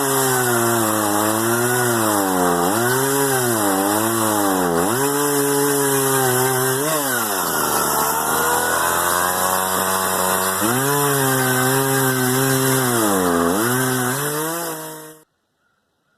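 Chainsaw cutting wood, its engine pitch repeatedly sagging under load as the chain bites and rising again as it frees up. The sound cuts off abruptly near the end.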